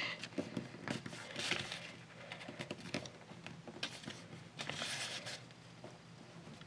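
A sheet of paper being folded and creased by hand, rustling in short scratchy bursts with small ticks and clicks.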